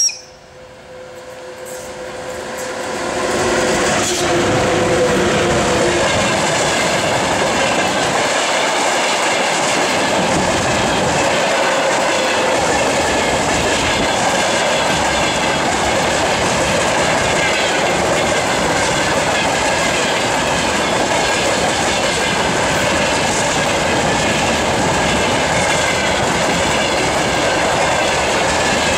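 A VL80K electric locomotive with a freight train approaching and passing close by, growing louder over the first few seconds, with a steady tone from the locomotive that fades out about six seconds in. Then a long string of loaded hopper wagons rolls steadily past, wheels clattering over rail joints with a high wheel squeal.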